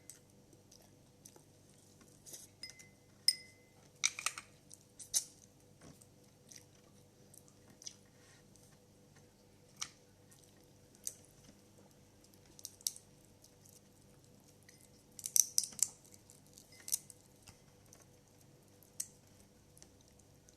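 Eating crab: chewing with scattered sharp clicks and cracks of shell and tableware. The clicks come loudest in clusters about four seconds in and again about fifteen seconds in.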